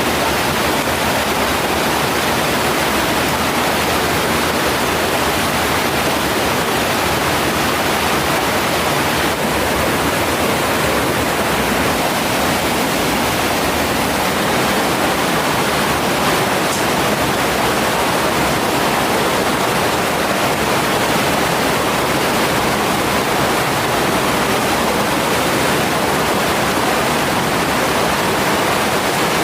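Mountain stream rushing, a loud unbroken wash of water.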